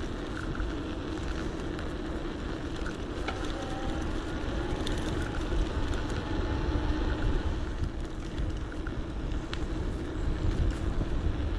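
Wind buffeting the microphone of a camera riding along on an electric bike, mixed with tyre and road noise and a steady low hum, with a few faint ticks.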